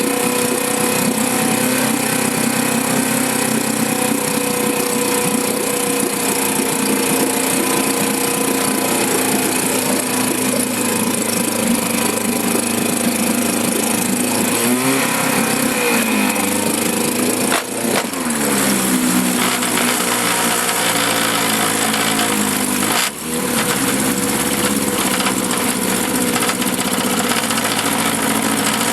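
1954 Johnson CD-10 5.5 hp two-stroke twin outboard motor running in a test barrel. It runs steadily, then its speed shifts in the second half, dipping briefly twice, at about 18 and 23 seconds, and picking up again.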